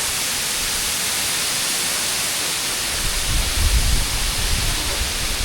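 Large waterfall roaring with a loud, steady rush of falling water; a low rumble swells about three seconds in.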